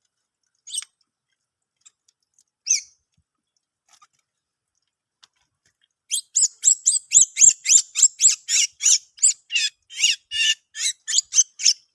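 A bird calling: two single sharp calls, then from about six seconds in a fast run of repeated high, sharp calls, about three a second.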